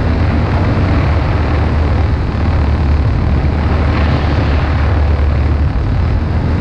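Fillo auxiliary motor of a powered hang glider running steadily in flight, under a broad rushing noise.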